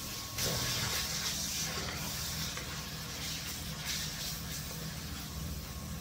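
Pork stir-frying in hot oil in a wok, stirred with a wooden spatula: a steady sizzling hiss that jumps louder about half a second in and then carries on evenly.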